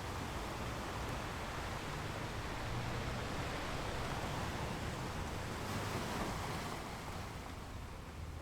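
Gentle ocean waves washing on a beach: a steady rushing surf with a low rumble, swelling a little mid-way and easing off near the end.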